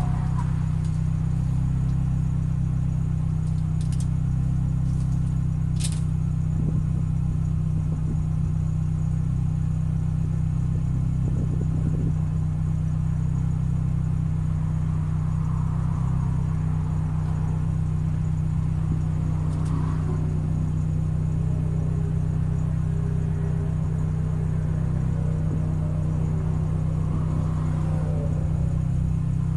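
Car engine idling steadily at a standstill, heard from inside the cabin as an even hum, with two faint clicks a few seconds in.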